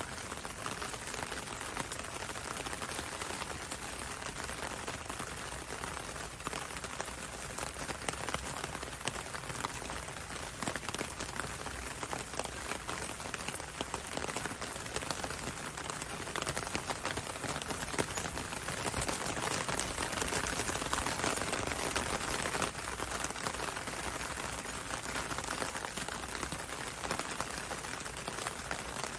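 Steady rain with fine drops pattering on a window and on the road, swelling slightly about two-thirds of the way through.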